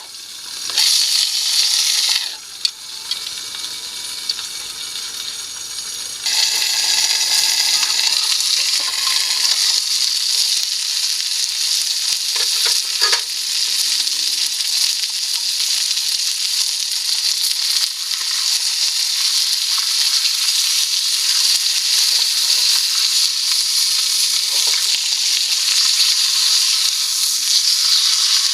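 Food sizzling as it fries in a pan, a steady hiss that steps up louder about six seconds in.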